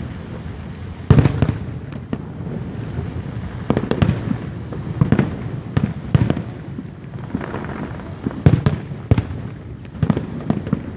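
Aerial fireworks bursting one after another, a string of sharp booms over a low rumble, the loudest about a second in and again a few seconds before the end.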